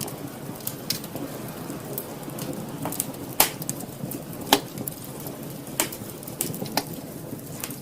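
Wood fire burning in a fireplace: irregular crackles and sharp pops over a low, steady rustle of the flames. The loudest pops come a little before and after the middle.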